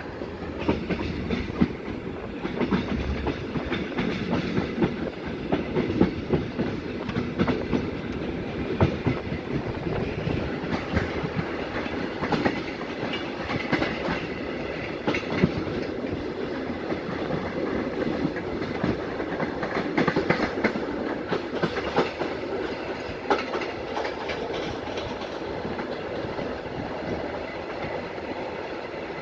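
Passenger sleeping car of a night express train rolling through station trackwork, wheels clicking irregularly over rail joints and switches over a steady rumble of the running gear.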